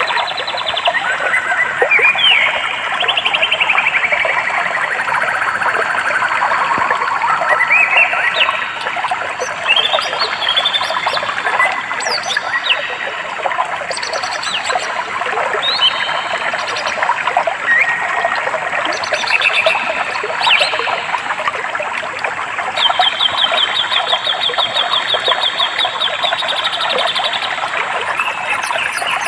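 Several songbirds calling and singing over a steady rush of flowing water, with a fast, even trill from one bird near the end.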